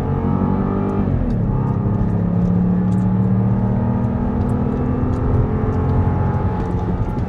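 Jeep Grand Cherokee's 2.0L turbocharged Hurricane inline-four at full throttle, heard from inside the cabin. Its pitch drops about a second in as the transmission shifts up, then climbs steadily as the SUV keeps accelerating.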